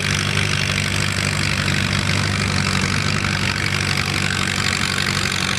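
Allis-Chalmers WC tractor's four-cylinder engine running at a steady, unchanging speed as it pulls the weight sled down the track.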